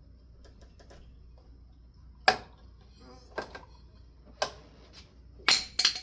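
Sharp metal clicks and knocks about a second apart from hand-tool work on a ceiling fan's canopy and mounting hardware. Near the end comes a louder, ringing metal clatter: a screwdriver being dropped.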